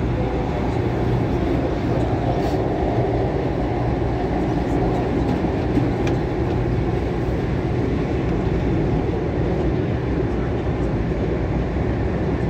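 MTR Tung Chung Line CAF train running at speed, heard from inside the car: a steady rumble of wheels on rail with a low hum under it.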